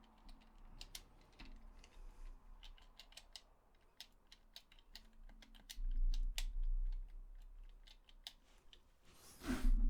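Handling of a DualShock 4 controller: a scattered string of small, sharp plastic clicks and taps. There is a low thud about six seconds in and a short rustle near the end.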